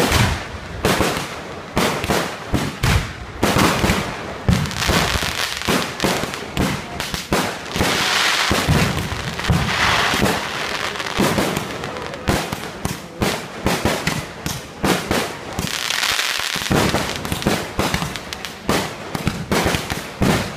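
Aerial fireworks display: a rapid, irregular string of loud bangs from bursting shells. Around the middle and again near the end the bangs come so thick that they merge into a continuous dense rattle.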